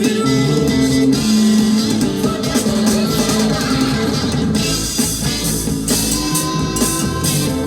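Blues-rock band music: electric guitar playing over a drum kit.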